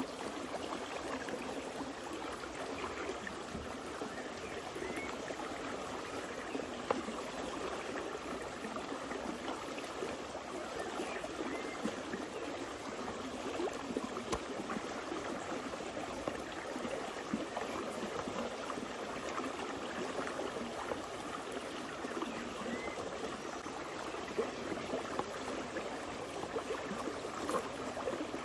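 Steady running water, like a stream, flowing evenly throughout, with a few faint ticks.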